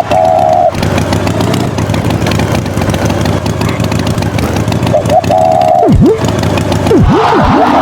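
An engine running steadily, with short high tones near the start and about five seconds in, and a few quick swooping glides that dip down and back up near the end.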